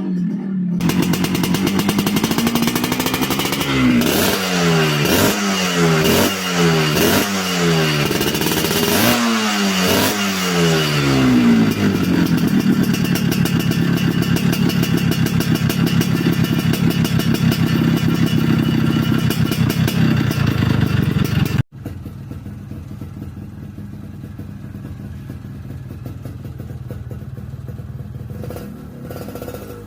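Yamaha RX-King's two-stroke single-cylinder engine running through a stock-style baffled exhaust with a crisp note: it is blipped in a quick series of revs, then held at high revs. About two-thirds of the way through the sound drops suddenly to a quieter steady running.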